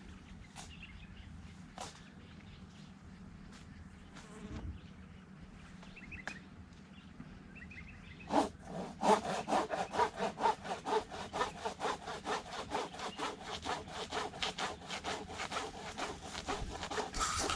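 Saw cutting through date-palm wood with quick, even strokes, about four a second, starting about halfway through. Before that there are only faint footsteps.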